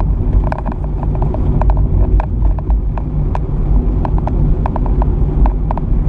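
Car driving on a rough road: a steady low rumble with frequent irregular clicks and rattles.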